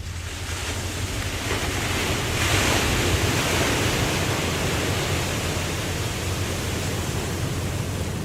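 Ocean wave breaking: a rushing swell that builds over the first couple of seconds, is loudest about three seconds in, then slowly fades, over a steady low rumble.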